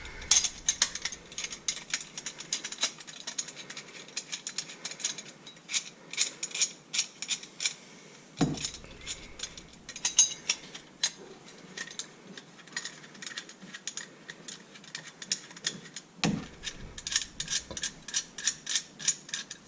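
Rapid, ratchet-like metallic clicking as the screws of a garbage disposal's sink mounting assembly are worked by hand, with two dull knocks about halfway and near the end.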